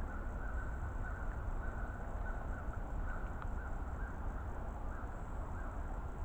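Steady low outdoor rumble with faint bird calls, short and repeated about every half second.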